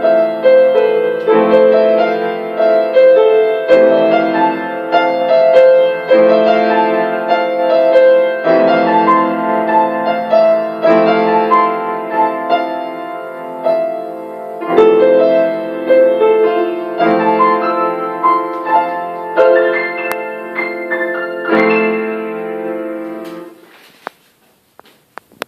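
Solo piano playing in phrases over repeated low chords. The last chord dies away about a second and a half before the end, and a few faint clicks follow.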